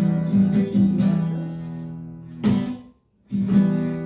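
Acoustic guitar strumming chords in an instrumental break. The first chord rings and fades for about two seconds, a second strum follows, then the sound cuts out completely for a moment before the strumming picks up again.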